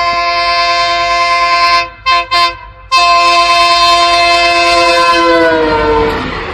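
Train horn blowing a long, loud blast, cut about two seconds in by two short toots and a brief break, then sounding again in a second long blast. Near the end the horn falls in pitch and fades into the rumble of the moving train.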